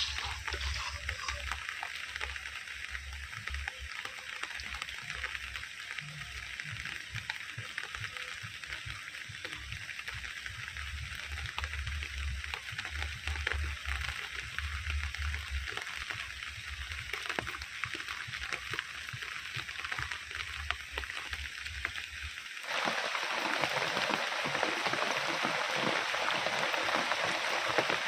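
Steady rain, an even hiss with scattered drop ticks over a low hum. About 23 seconds in it cuts abruptly to louder, fuller heavy rain.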